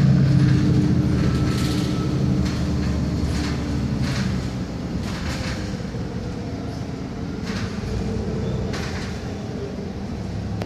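Inside a moving city bus: a low engine and road rumble, with short rattles and clunks from the bus body about once a second. The engine sound dies down over the first few seconds.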